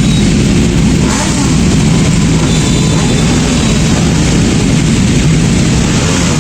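Superbike engine running loudly with a deep, low exhaust note, plus a short sharper burst about a second in.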